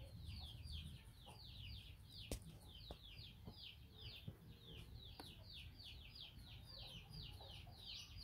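Bird chirping: a steady run of short, high peeps, each falling in pitch, several a second, with a few faint taps among them.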